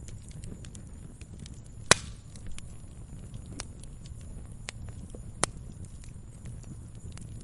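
Wood bonfire crackling: a steady low rumble of burning, scattered small clicks, and two sharp pops, a loud one about two seconds in and another about five and a half seconds in.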